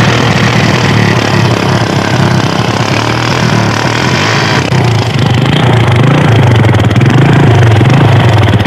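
Kawasaki motorcycle engine running loud through an exhaust that has been cut short, a steady deep rumble that grows a little louder about six seconds in.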